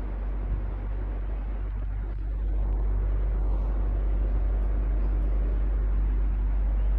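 Electric fan running steadily: an even noise of moving air over a deep, constant hum, growing a little louder about two and a half seconds in.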